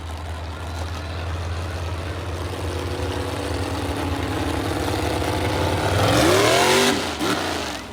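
A vehicle engine running and slowly building, then revving up sharply about six seconds in, the loudest moment, before the revs drop back.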